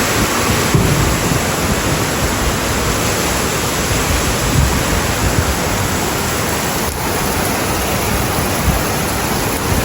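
Heavy rainstorm downpour: a loud, steady rush of rain.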